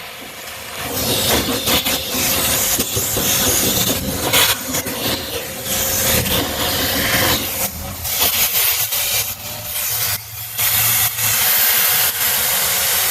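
Vacuum cleaner running, its nozzle drawing dust out of the inside of a gas furnace, the hiss rising and falling as the nozzle moves.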